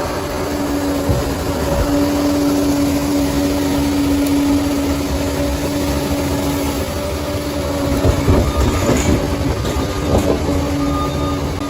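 Bulldozer diesel engine running steadily, with a few knocks about eight to ten seconds in.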